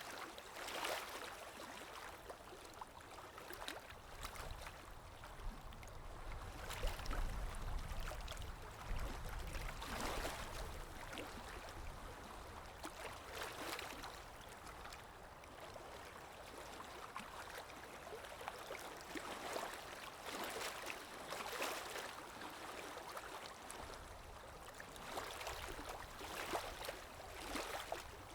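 Underwater ambience: muffled moving water with gurgling bubbles, rising and falling in irregular swells, with a low rumble about seven to ten seconds in.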